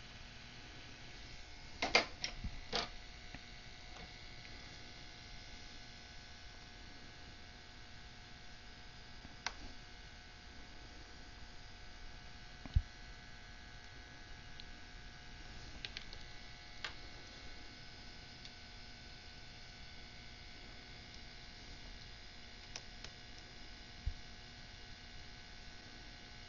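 Steady electrical hum, broken by a few scattered small clicks and taps of prying tools on the iPod Touch's cracked glass front as it is worked loose, with a short cluster of clicks about two seconds in.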